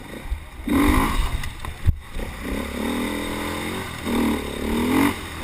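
Racing vehicle engine accelerating hard, its pitch climbing and then dropping back three times as it shifts up through the gears, with a sharp knock about two seconds in.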